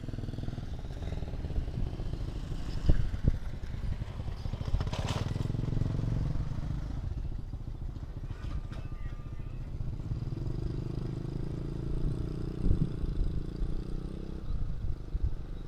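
Road traffic with motorcycle engines running and passing. There is a sharp click about five seconds in.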